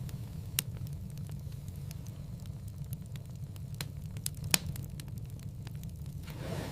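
Wood fire burning in a fireplace: a steady low rumble of flames with scattered sharp crackles and pops, the loudest about four and a half seconds in, and a soft rush of flame near the end.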